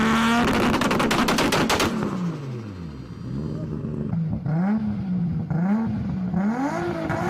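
Toyota Supra MK4 inline-six held at high revs, then let off with a rapid string of sharp crackles and pops from the exhaust for about a second and a half. The revs sink low, and the throttle is then blipped about three times, each rev rising and falling.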